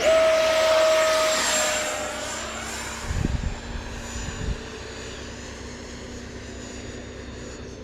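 A radio-controlled model jet passes close and fast: a loud rushing whine comes in suddenly, drops in pitch as it goes by, then fades to a steady distant hum. A few low thumps come about three to four seconds in.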